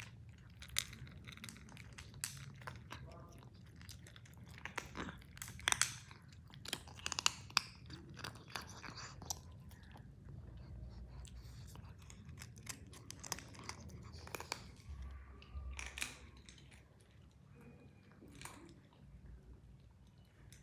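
A cat chewing and crunching food, in irregular crunches that come thickest in the first half.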